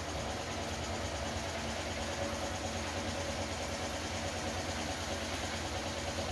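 Steady hum of running machinery, an engine or motor, even throughout with a low drone and a faint steady tone above it.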